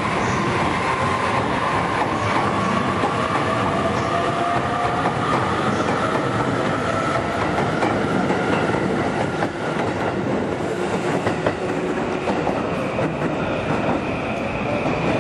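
Electric train running past a station platform: a steady rumble with wheels clicking over rail joints, and faint high tones that slowly slide in pitch.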